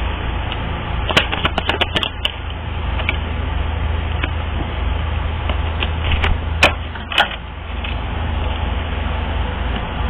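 Reading cards being handled and shuffled: a quick run of snapping clicks about a second in and a few single clicks later, over a steady low hum.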